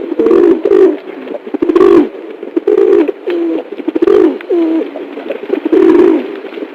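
Dove cooing: a steady series of short, low coos, one after another.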